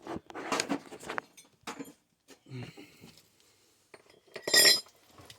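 Metal plumbing parts and tools clinking and clattering as they are handled, with a series of light knocks and one louder ringing metallic clank about four and a half seconds in.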